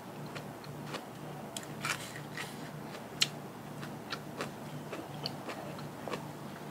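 A person chewing and crunching food close to the microphone, with scattered crisp cracks of bites, the sharpest about two seconds and about three seconds in.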